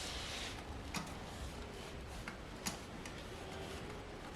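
A few light, sharp clicks, spaced irregularly, the first about a second in and the next about two and a half seconds in, over a low steady background, with a brief hiss at the start.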